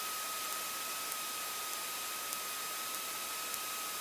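Steady hiss of a small airplane's headset intercom line with no one talking, with a faint steady high whine running through it and a few faint ticks.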